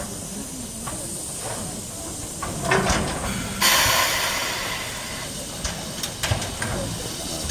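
Steam locomotive C61 2 hissing steam. A sudden loud blast of steam about three and a half seconds in fades away over a second or two, and a few sharp clicks follow.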